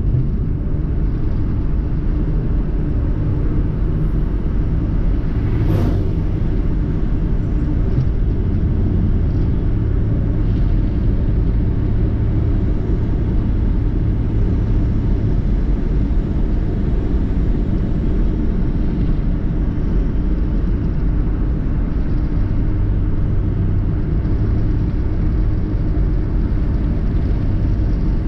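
Car driving with a steady low engine and road rumble.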